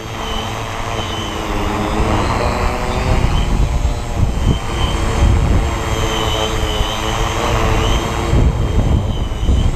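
Multirotor drone's propellers whining in flight, their pitch wavering up and down as the motors work to hold position in gusty wind. Wind buffets the microphone with a heavy, gusting rumble underneath.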